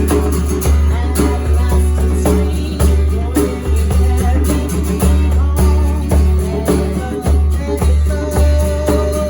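Live worship band playing a song with a steady beat: guitar, bass and drums, with some singing.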